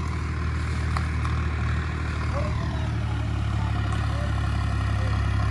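Sonalika DI 50 RX tractor's diesel engine running steadily.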